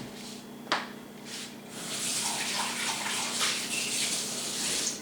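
Kitchen tap running for about three seconds, water splashing into a sink, turned on a little under two seconds in and shut off just before the end. A single knock comes shortly before it.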